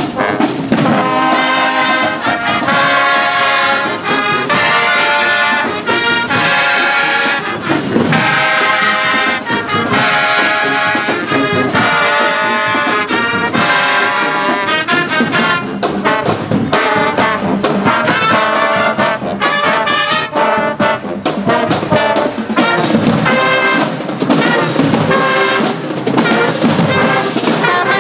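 A marching band's brass section playing a loud tune, with trombones and trumpets sounding together in long sustained notes.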